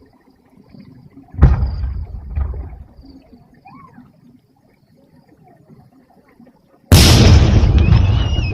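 Two aerial firework shells bursting: a sharp boom about a second and a half in, then a louder one near the end, each trailing off in a long fading rumble.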